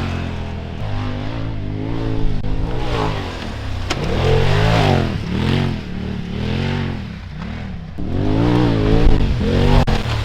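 Polaris RZR side-by-side engine revving up and dropping off again and again, about once a second, as the throttle is worked through a run of jumps. A sharp knock comes about four seconds in, and another couple just before the end.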